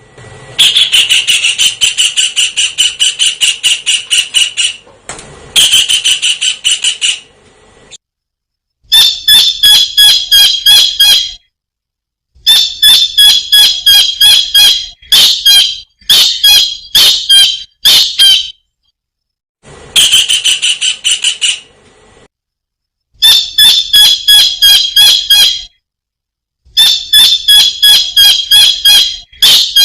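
Kingfisher calling in bursts of rapid, high-pitched repeated notes, each burst two to four seconds long with short pauses between. Some bursts run together into a steady trill; others are separate sharp notes.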